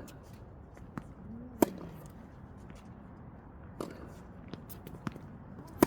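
Tennis balls being struck by rackets in a rally drill, with fainter pops of the ball bouncing on the court. Two sharp hits stand out, about four seconds apart.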